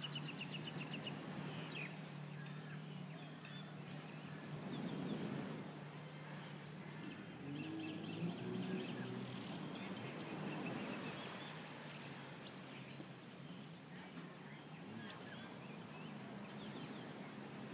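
Birds chirping faintly and off and on, over a steady low hum.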